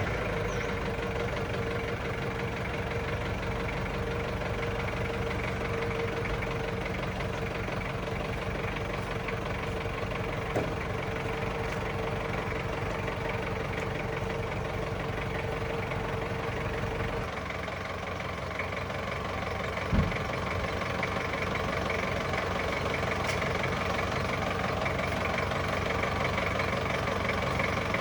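Restored 2008 Ford Ranger pickup's engine idling steadily just after being started. About two-thirds of the way through, the deep rumble drops away and the idle goes on a little quieter, with a short click near the middle and a sharper knock shortly after the change.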